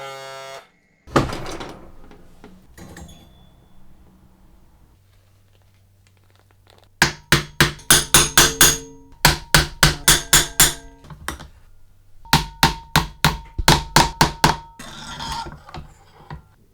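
Hammer tapping on a metal part: a single heavier knock about a second in, then three quick runs of strikes at about four to five a second, each with a short ring.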